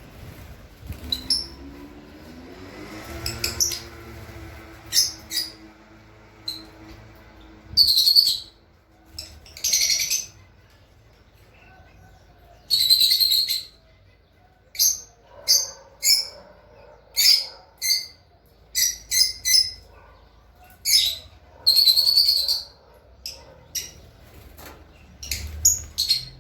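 Small cage birds chirping: short, high-pitched calls at irregular intervals, a few of them drawn out to about a second.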